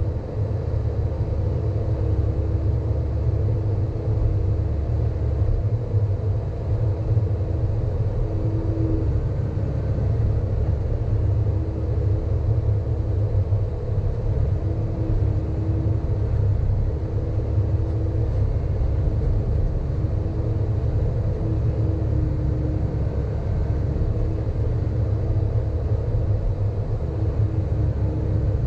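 Sany hydraulic excavator's diesel engine running steadily while the machine works: a heavy low rumble with a constant whining tone over it that swells briefly now and then.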